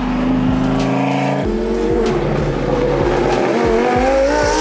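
Tyres of a twin-turbo Lamborghini Huracán squealing in one long screech under hard driving, with the engine rumbling beneath. The pitch shifts about a second and a half in and rises near the end.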